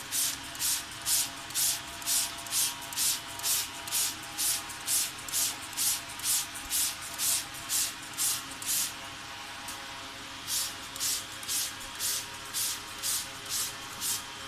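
Hand trigger spray head on a plastic soda bottle squirting water in quick, even spurts, about two a second, with a short break about nine seconds in.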